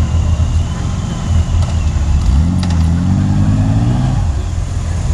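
Motorcycle engines running with a low, steady rumble. About two seconds in, one bike revs up in a rising note as it pulls away, then it drops off about four seconds in.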